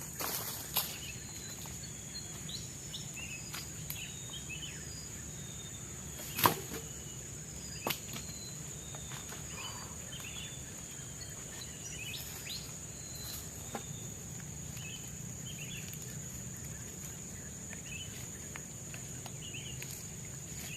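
Steady high-pitched drone of forest insects with scattered short bird chirps, broken by a few sharp knocks, the loudest about six seconds in.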